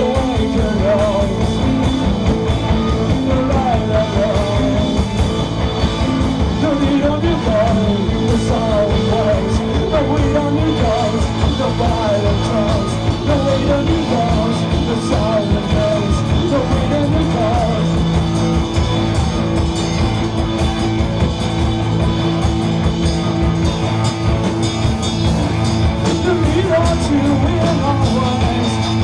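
Live rock band playing a dense, loud improvised jam: drums keeping a fast, busy beat under bass and electric guitars, with a wavering lead line on top.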